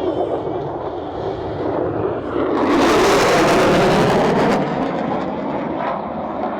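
Jet aircraft flying past, its engine noise a steady rumble that swells to a loud, hissing peak for about two seconds midway, then eases back.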